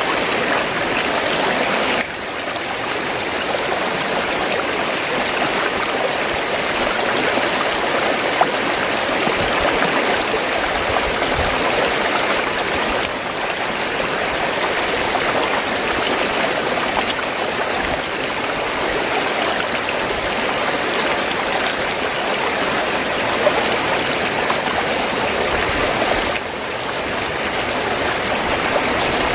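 Fast-flowing stream gurgling over rocks, a steady rush of water, with small shifts in loudness about two seconds in and again near the end.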